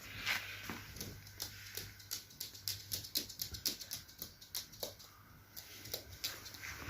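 Young Amazon parrot making quick, irregular clicks and taps, a few a second.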